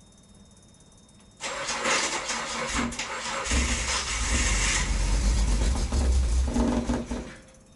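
Datsun 240Z (S30) engine being started: it cranks over, catches and runs for a few seconds, then stops abruptly near the end.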